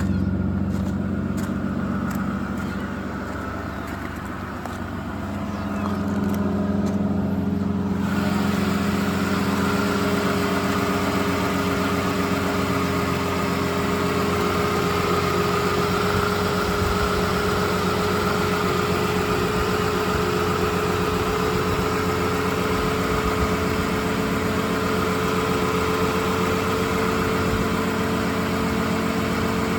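Aston Martin V12 idling after a cold start, a steady even hum. The idle dips slightly and then rises again around five seconds in, and a steady hiss joins abruptly about eight seconds in.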